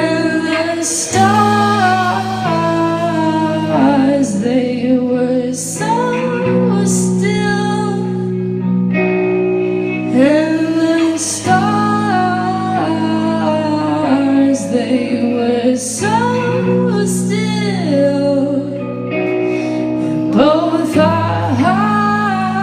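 Live rock band performance: a woman singing over guitar, bass and drums with cymbal hits.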